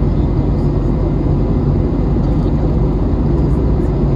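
Steady low rumble of an Airbus A321neo's engines and rushing air, heard from inside the passenger cabin.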